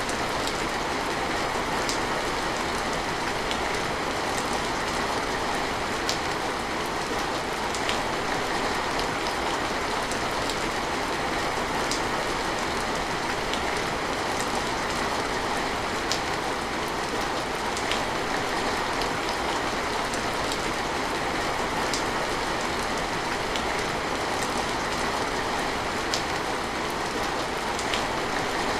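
Steady rain falling, an even hiss with occasional sharper drops ticking every couple of seconds.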